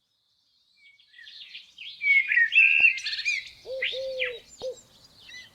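Birdsong from a nature-sound recording. About a second in, small birds begin chirping and twittering in short, high calls. From about halfway through, low repeated cooing notes join them.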